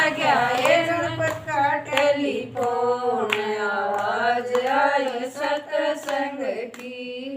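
Female voice singing a Haryanvi satsang bhajan in long, drawn-out notes, with hand claps keeping time.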